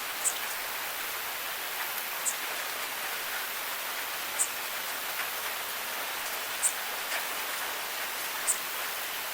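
Steady rain hiss, with five sharp high drip ticks spaced about two seconds apart.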